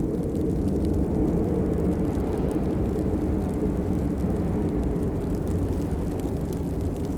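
Steady rain: a dense, even noise, mostly low in pitch, with faint scattered drip ticks on top.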